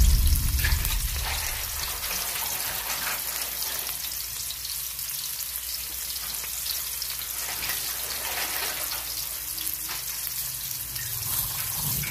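Food sizzling in hot butter or oil in a pan, a steady crackling hiss.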